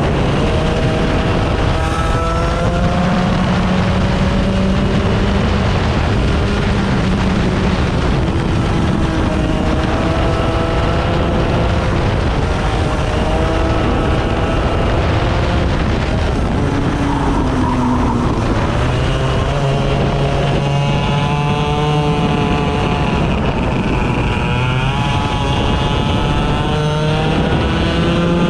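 A 100cc racing engine at full race pace, revving up on the straights and dropping off into corners again and again, with a deep dip partway through before a long pull back up, over constant wind and track noise.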